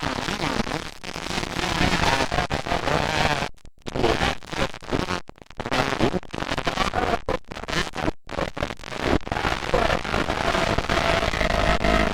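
Motocross dirt bike engines running and revving, heard as a loud, distorted, crackly roar with a few brief dropouts in the audio.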